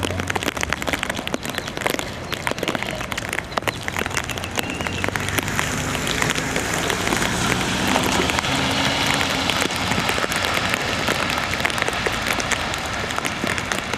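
Heavy rain falling and splattering, with many separate drop impacts. About five seconds in it thickens into a denser, steadier hiss.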